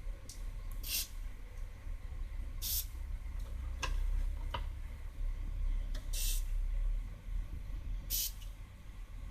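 Four short hissing squirts, each about a third of a second, from cleaning the dusty cassette deck mechanism, with a couple of small clicks between them.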